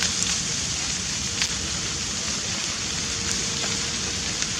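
Grass fire burning: a steady crackling hiss with a few sharper pops scattered through it.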